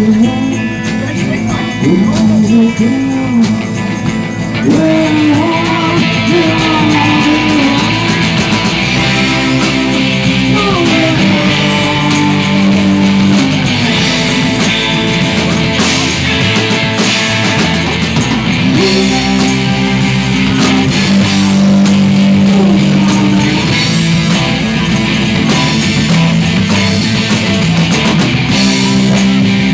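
Live rock band playing, with guitar over bass and drum kit; the lead line slides and bends in pitch.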